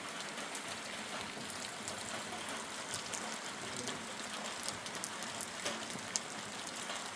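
Steady rain falling, an even hiss studded with many small sharp drop ticks.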